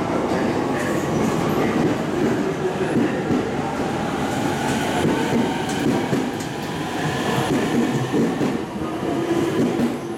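E231-1000 series electric train pulling out of the station and picking up speed past the platform, with the steady running noise of its wheels on the rails.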